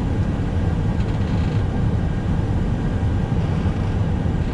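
Steady cockpit noise of an Airbus A321: an even low rumble with a few faint steady tones above it, unchanging throughout.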